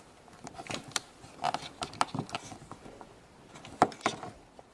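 Light clicks and taps of a plastic Play-Doh popsicle mold being pressed shut and handled, with a sharper click about four seconds in.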